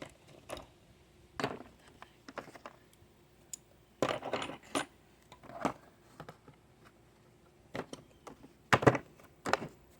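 Hand tools and small metal parts clinking and clattering as they are put away, a string of irregular knocks and clanks with short quiet gaps, the loudest near the end.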